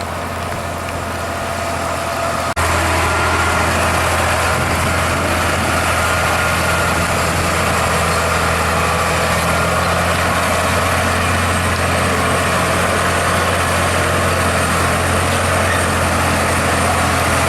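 Heavy truck engine running steadily with a deep, even hum, growing louder after an abrupt cut about two and a half seconds in.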